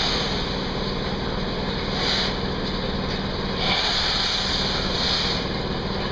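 An engine running steadily, with short bursts of hissing a couple of seconds in, around four seconds and again near five seconds.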